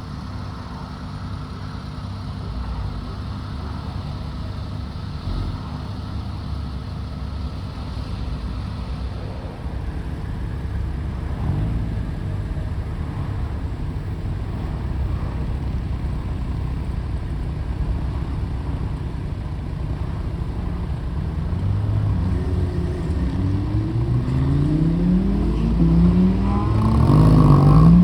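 Supercar engines running at low revs as a steady low rumble. In the last several seconds a car engine revs up several times in quick rising sweeps, getting louder toward the end.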